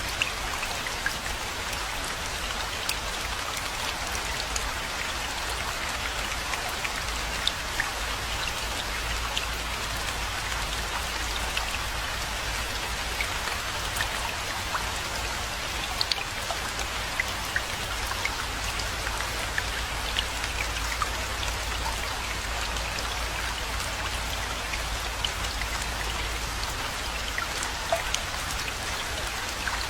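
Steady rainfall, with many separate drops ticking sharply over an even hiss of rain and a low, constant rumble underneath.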